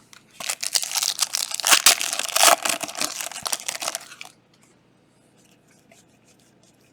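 Plastic wrapper of a trading card pack being torn open and crinkled, a dense crackling rip that lasts about four seconds and then stops. A few faint clicks of card handling follow.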